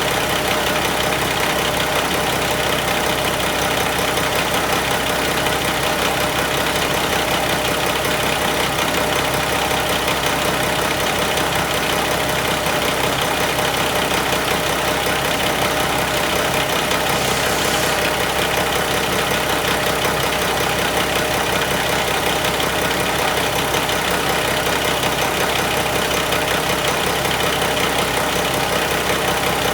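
2005 Mack E7 inline-six diesel engine idling steadily.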